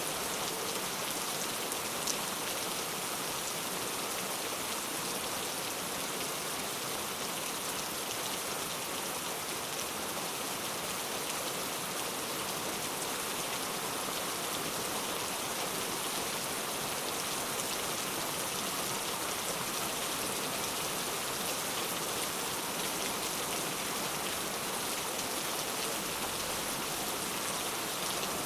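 Heavy rain falling steadily, a dense even hiss with fine scattered drop impacts.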